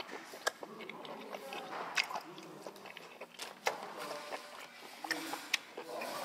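Close, wet chewing of steamed octopus, with sharp clicks now and then.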